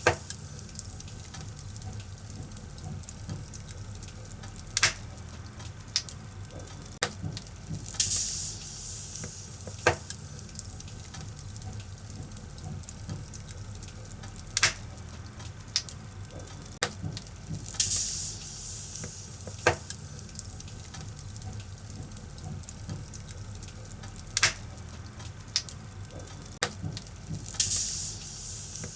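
Firewood burning in a fireplace: irregular sharp crackles and pops over a steady low rumble, with a short hissing flare roughly every ten seconds.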